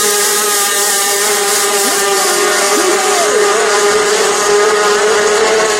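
Race boat engines running hard at high revs, holding one steady high pitch, while other engines briefly rise and fall in pitch as they pass.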